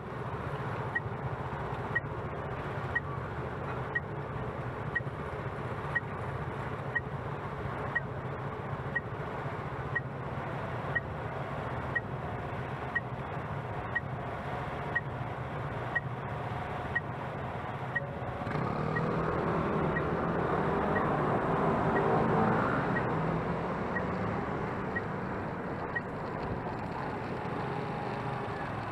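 Street traffic heard from a moving electric scooter: a steady low rumble of road and wind noise, with a short high beep about once a second that stops a few seconds before the end. From just past halfway a larger vehicle's engine swells up loudly for several seconds, then fades.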